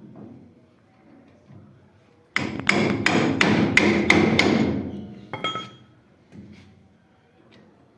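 A hammer striking metal: a rapid run of about ten ringing blows over roughly two and a half seconds, then a couple of lighter knocks.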